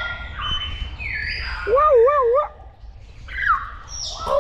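Birds calling over one another: clear whistled notes that slide down in pitch and warbling notes that waver up and down. The strongest warble comes about two seconds in.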